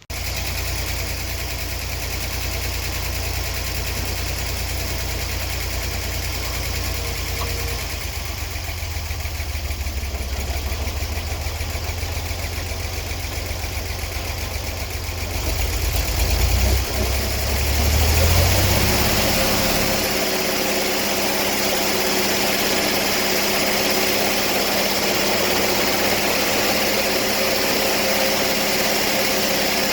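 Sawmill engine idling, then revving up about halfway through and settling into a steady, higher-speed run.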